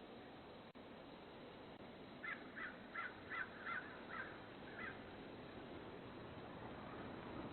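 A bird calls about seven times in quick succession, starting about two seconds in, over a steady low hiss.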